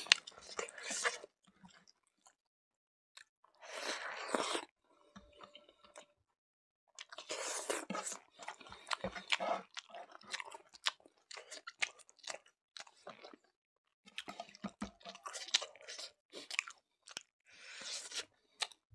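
Close-up sound of a person chewing a mouthful of rice and smoked pork, with wet smacking and small crunches. It comes in bursts of clicks and chews with short pauses between.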